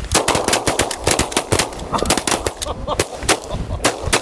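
A rapid volley of shotgun shots from several hunters firing at once at a flock of ducks. Many shots overlap in the first two seconds, then they thin out to a few scattered shots near the end.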